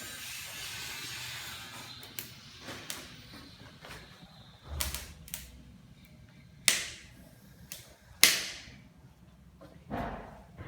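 Wood fire crackling in a brick fireplace's firebox, with scattered clicks and three louder sharp pops that die away quickly, about seven, eight and ten seconds in.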